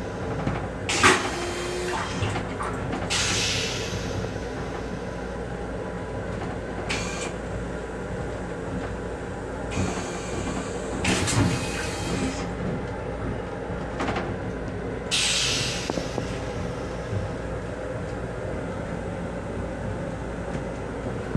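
Steady running hum of an M7 electric railcar heard from inside its restroom, broken by several short hissing bursts with a few sharp knocks.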